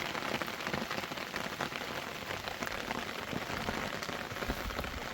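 Steady rain, a dense patter of many small drops.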